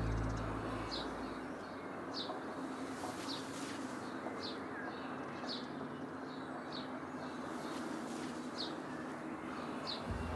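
A bird repeating a short, high chirp about once a second over a soft, steady background hiss.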